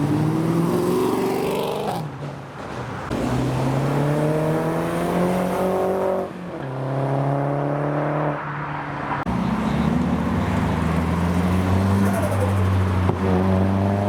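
Modified car engines accelerating, the pitch climbing and then dropping back at each gear change, about two, six and nine seconds in. After that a lower, steadier engine drone, with another engine rising over it near the end.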